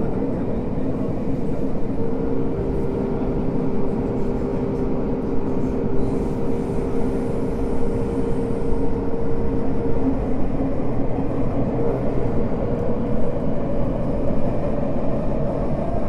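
Tokyo Metro 05 series subway train with Mitsubishi IGBT-VVVF drive, running at speed between stations, heard from inside the car as a continuous rumble of wheels on track. A steady whine sits over the rumble from about two seconds in until about ten seconds in.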